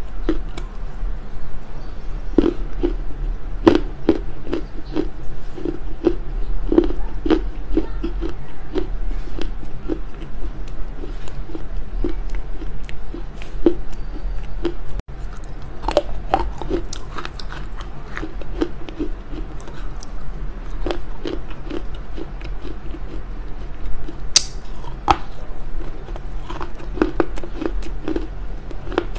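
Close-miked chewing of dry smoked loess clay: a steady rhythm of crunchy chews and crumbling clicks, about two a second, with a sharp snap near the end. A low steady hum sits underneath.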